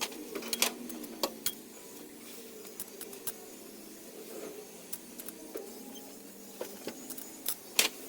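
Irregular sharp metallic clicks and clinks of a wrench and socket working the cylinder head bolts of a 4D56 diesel engine, with a cluster near the start and another near the end.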